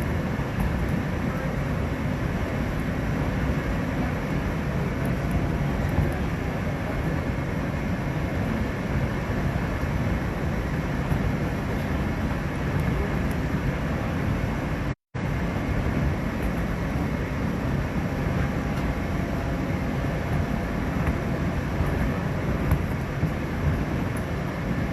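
New York subway N train running between stations, heard from inside the car: a steady rumble of wheels and motors on the rails. The sound cuts out completely for a split second about fifteen seconds in.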